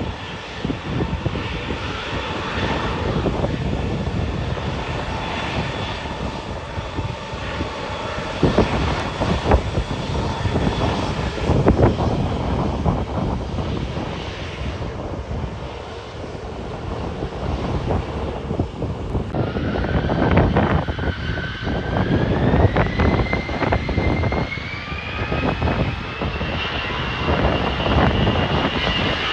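Airliner engines running amid gusty wind buffeting the microphone. About two-thirds of the way in, an engine whine starts and climbs steadily in pitch as the engines spool up.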